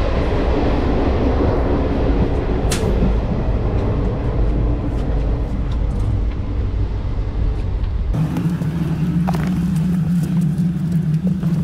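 Running noise of a passenger train heard from inside a sleeper coach: a heavy, steady low rumble. About eight seconds in it changes abruptly to a steadier low hum.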